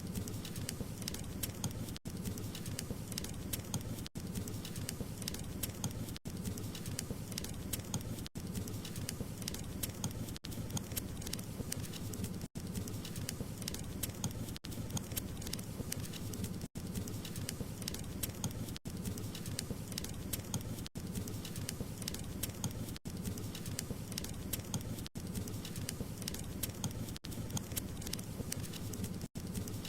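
Wood fire crackling: a dense, steady stream of small pops and snaps over a low rumble, broken by a brief dropout about every two seconds.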